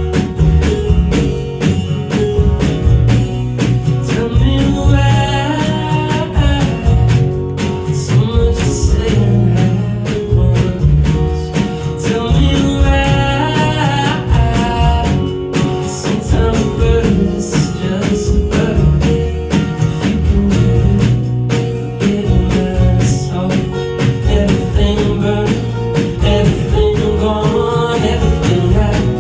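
Indie-folk band playing live: drums keeping a steady beat under bass and acoustic guitar, with a melodic lead line sliding between notes during a stretch without recognised lyrics.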